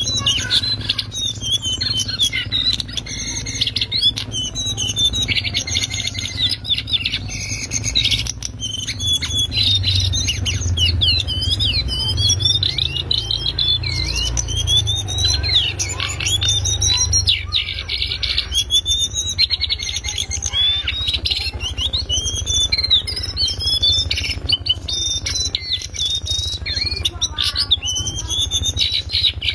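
Cingcoang coklat (jongkangan, the lesser shortwing) singing a loud, rapid, high chattering warble almost without pause, over a steady low hum.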